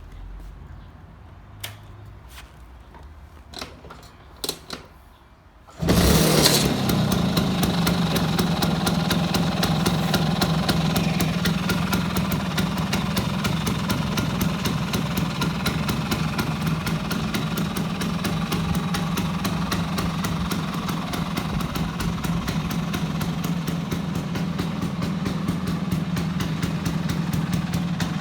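A few sharp clicks, then about six seconds in a Vespa PX150's single-cylinder two-stroke engine starts and settles into a steady idle.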